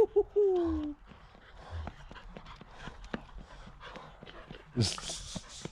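A dog at play gives a short falling whine right at the start, then small scuffs and clicks, with a brief hiss of noise about five seconds in.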